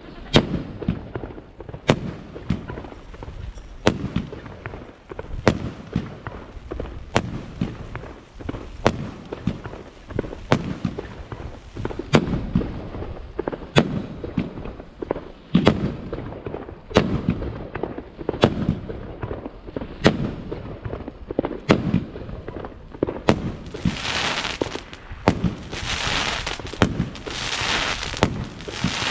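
Firework battery (cake) firing shot after shot: sharp launch pops and bursts about every second and a half, with smaller pops between. Near the end, crackling effects swell and fade in several waves.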